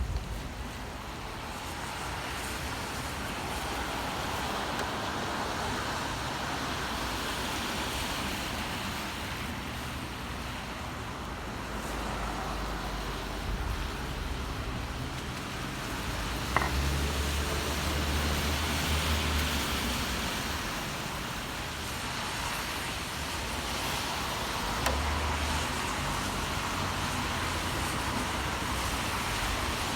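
City traffic on a rain-wet street: tyre hiss swells and fades as vehicles pass. A deeper engine rumble comes through about halfway in and again near the end, and there is one sharp click about two-thirds of the way through.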